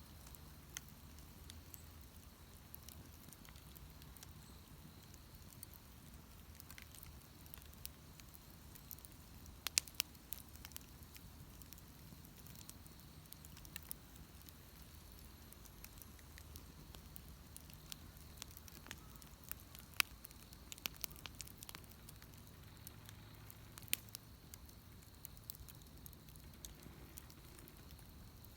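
Wood bonfire burning, crackling with scattered sharp pops, the loudest about ten and twenty seconds in.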